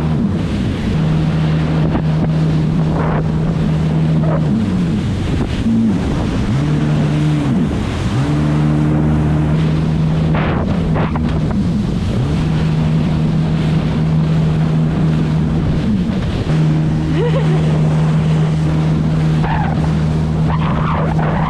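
Jet ski engine running at speed, its steady drone dipping and rising in pitch several times as the throttle is eased and opened again, with wind and spray noise.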